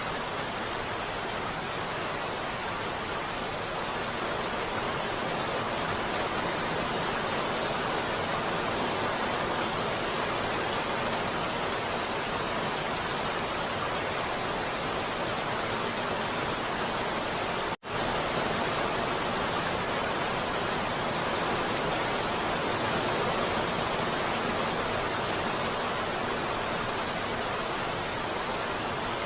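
Heavy rain falling steadily, an even hiss with no thunder or distinct drops standing out. About two-thirds of the way through it cuts out for an instant and comes straight back.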